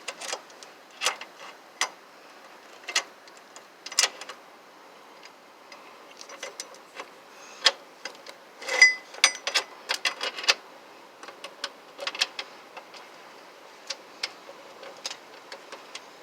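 Ratchet wrench clicking irregularly in short runs as it is worked back and forth to loosen a stuck engine mount bolt, with a louder clatter of metal tool knocks about nine seconds in.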